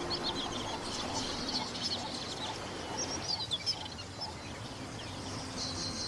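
Small birds chirping in quick, short high calls, several at a time, over a steady background hiss.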